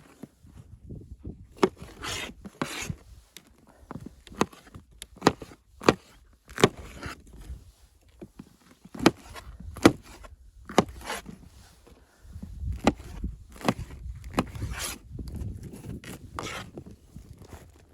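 Irregular handling noises: a series of sharp knocks and clicks mixed with short scrapes and rubbing, with a low rumble for a few seconds past the middle.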